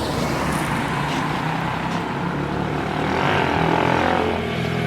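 Small single-cylinder mini dirt bike engine running, revving up and back down about three seconds in.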